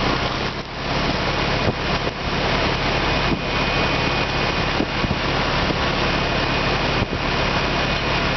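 Rheem central air conditioner running just after start-up, a steady hum with a rush of air from the system's fan.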